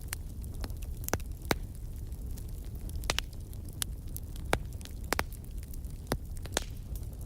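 Wood fire crackling in a fireplace: irregular sharp pops and snaps, about a dozen, over a low steady rumble of the flames.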